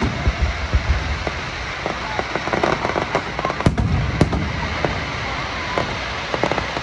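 Aerial fireworks display going off continuously: deep booms of bursting shells mixed with rapid crackling pops. A sharp bang comes right at the start, and two more come about three and a half and four seconds in.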